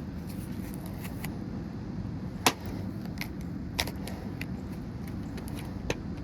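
Sharp metallic clicks and knocks from parts of a microwave oven being broken apart, scattered and uneven, the loudest about two and a half seconds in, over a steady low rumble.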